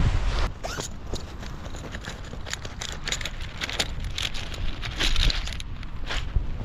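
Gusting wind rumbling on the microphone, with tarp fabric flapping and snapping in the gale: a run of short, sharp crackles and cracks, busiest about five seconds in.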